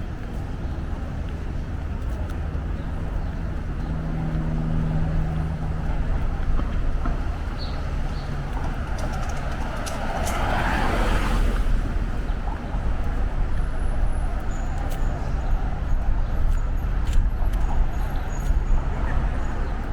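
City street sound: a steady rumble of traffic, with a vehicle swelling past and fading about halfway through, and scattered light clicks.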